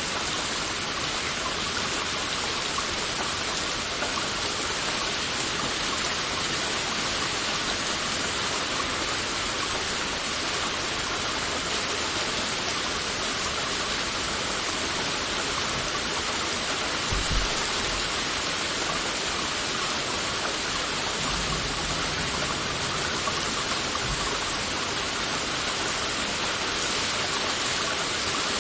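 Heavy rain falling steadily, a dense even hiss of drops, with a couple of brief low rumbles a little past the middle.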